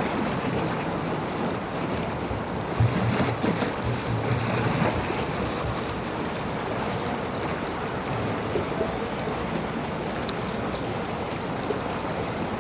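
River Ganga flowing: a steady rushing of water, with a few louder low rumbles about three to five seconds in.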